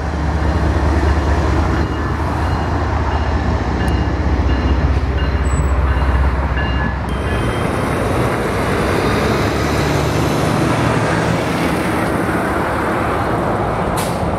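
CN GE diesel freight locomotive going by, its engine running with a deep low hum. About halfway through, this gives way to the steady rumble of a double-stack intermodal train's wheels rolling on the rails.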